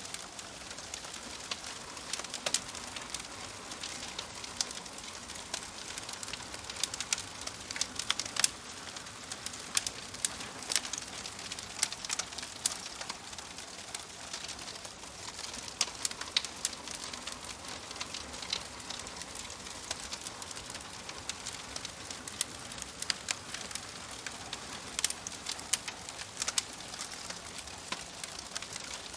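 Wood fire crackling steadily, with frequent sharp irregular pops and snaps over a soft hiss.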